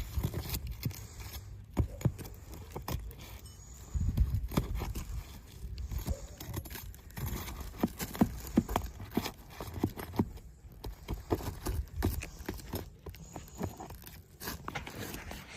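Irregular footsteps and scuffs with scattered small knocks and scrapes, over a low rumble.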